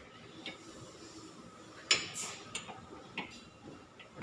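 Irregular metallic clicks and clinks of hand tools against metal parts during work on a car's steering linkage, the loudest about two seconds in with a brief high ring.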